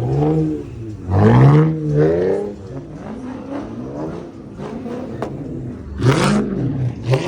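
Car engine being revved hard over and over, its pitch climbing and dropping about once a second, with a louder noisy rush around a second in and again about six seconds in.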